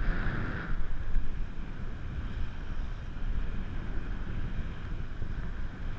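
A boat under way: a steady low rumble with wind buffeting the microphone, and a louder rush of hiss in the first second.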